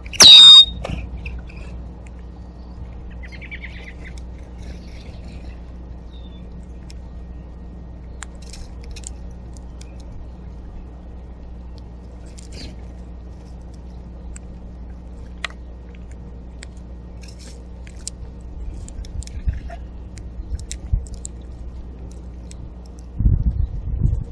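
Backyard feeder animals: one loud, short, high squawk right at the start, then faint scattered clicks and a brief soft chatter, with a low thump near the end.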